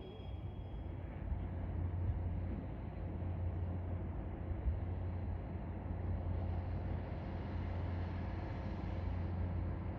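HondaJet's GE Honda HF120 turbofan engines running at a distance: a steady low rumble with a jet hiss that swells from about six seconds in and eases off near the end.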